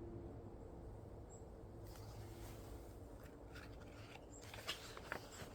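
Quiet room tone with a faint steady hum, and a few soft faint clicks and rustles in the second half.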